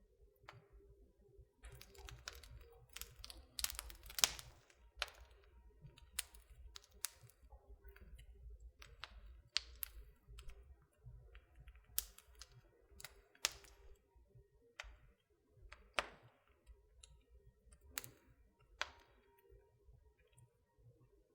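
Wood fire in a fireplace crackling: irregular sharp pops and snaps over a faint low rumble, thickest in the first few seconds and thinning out to scattered single pops.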